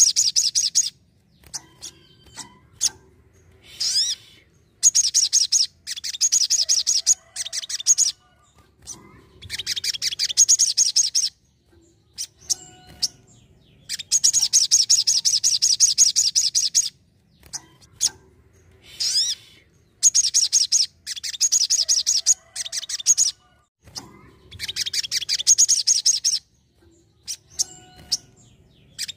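Sogon songbird singing in loud, rapid, high-pitched trilling bursts of one to three seconds each, repeated about every few seconds, with faint single chirps in the short pauses between them.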